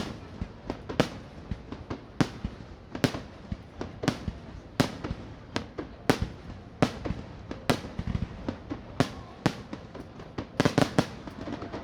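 Fireworks display: aerial shells bursting in a steady run of sharp bangs, about two a second, each with a short echoing tail. A quick cluster of bangs comes near the end.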